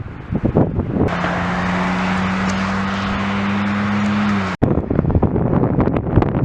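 A motor vehicle's engine running steadily with a low hum for about three seconds, cut off abruptly, with wind buffeting the microphone before and after.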